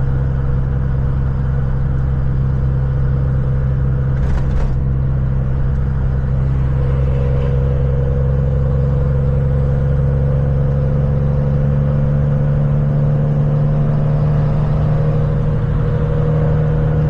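Engine and road noise of a moving vehicle heard from inside the cab: a steady low drone that rises slightly in pitch near the end, with a brief click about four seconds in.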